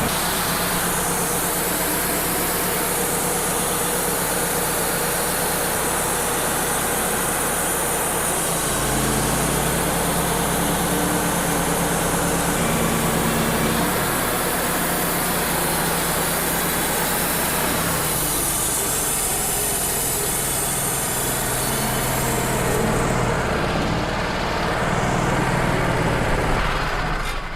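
Wood-Mizer LT35 HD portable bandsaw sawmill running continuously, its engine working as the band blade cuts through a red oak log. The engine note shifts a few times with the changing load.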